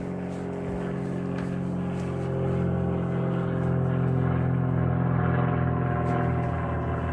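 Steady low machine hum made of several even tones, swelling slightly in the middle and easing off near the end.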